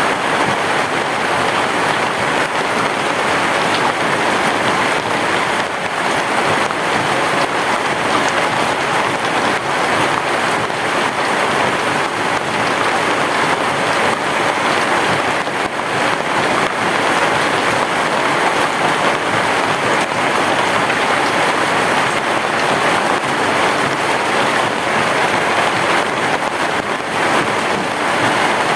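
Heavy rain falling steadily on a roof, an even, dense hiss with no thunder.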